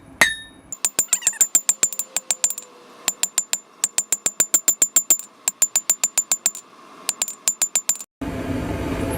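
Hand hammer drawing out the point of a hot carbon-steel cold chisel on the anvil: quick runs of ringing blows, about six or seven a second, with short pauses between runs. Near the end the blows stop and a steady rushing noise takes over.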